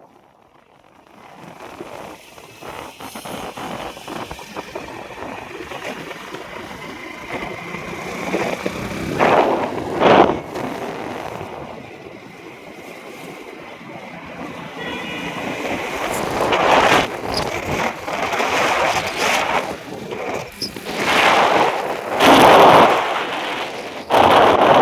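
Road traffic with several vehicles passing one after another, each swelling and fading. The loudest passes come about ten seconds in and again near the end.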